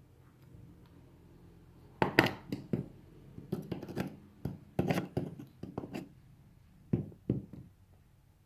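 A run of irregular knocks, clicks and scrapes of small hard objects being handled, starting about two seconds in after a quiet stretch.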